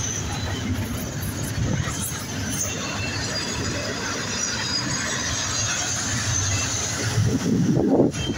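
BNSF double-stack intermodal container train rolling by: a steady rumble and clatter of the cars on the rails, with high wheel squeal at times. The noise gets louder and rougher near the end.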